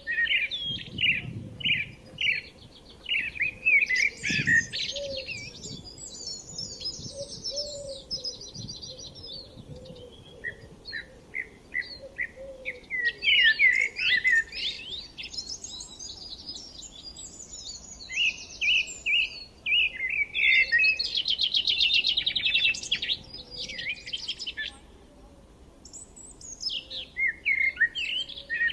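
Several birds chirping and singing over one another: quick repeated chirps, with fast high trills twice.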